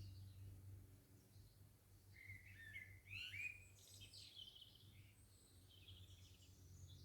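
Faint garden birdsong: a songbird gives a quick phrase of varied whistles and chirps about two seconds in, with fainter calls afterwards, over a low steady background hum.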